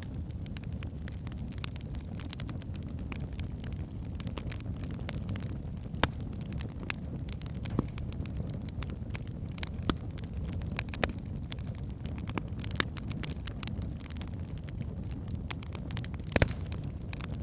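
Wood fire burning in a fireplace: a steady low rumble of flames with irregular sharp crackles and pops from the logs, a few louder pops scattered through.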